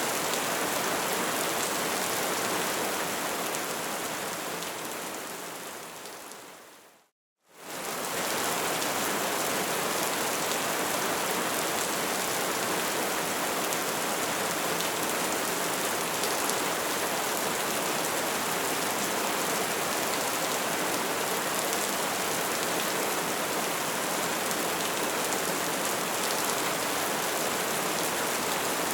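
Bonfire crackling and burning steadily with fine dense pops. About seven seconds in it fades away to silence for a moment, then returns at full level.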